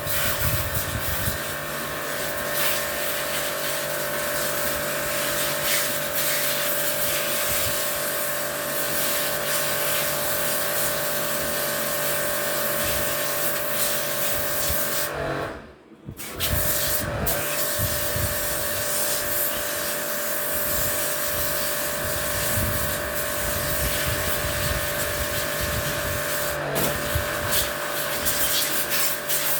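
A small electric motor-driven machine running steadily with a loud hiss and a constant hum. About halfway through it falls away for about a second, then comes straight back.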